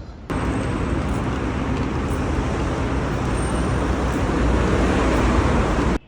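Steady vehicle noise, an even rumble with hiss that cuts in suddenly and stops suddenly.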